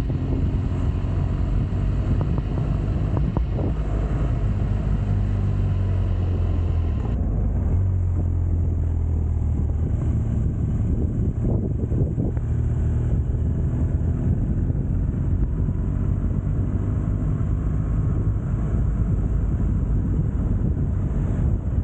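Motorcycle engine running at a steady road speed, with wind noise on the microphone.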